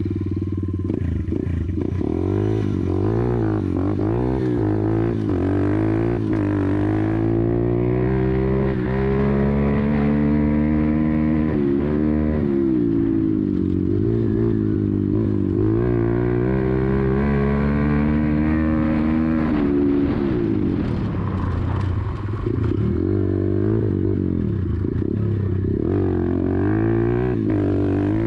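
YCF 125 pit bike's single-cylinder four-stroke engine being ridden hard, its revs climbing and dropping again and again as it accelerates and backs off around the track.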